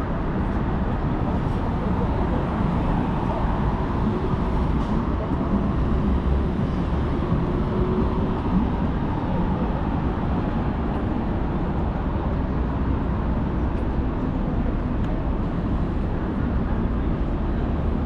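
Steady downtown street ambience: a constant low rumble of traffic.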